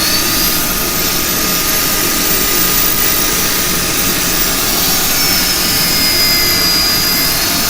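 Electric drill spinning a sanding pad against cherry wood turning on the lathe: a steady hiss of abrasive on wood under a high motor whine, which rises briefly just after the start.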